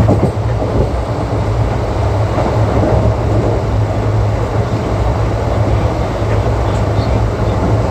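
Wheels of an Indian Railways ICF passenger coach running on the track: a steady rumble and rattle with a strong low hum and a few faint clicks.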